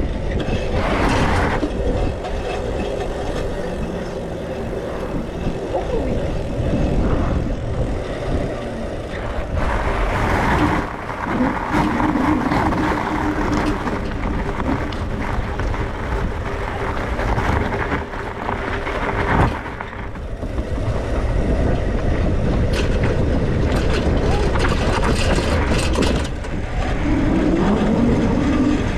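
Continuous wind and road rush from riding an e-bike, heard on the rider's camera microphone. A steady hum sits on top of it for several seconds in the middle.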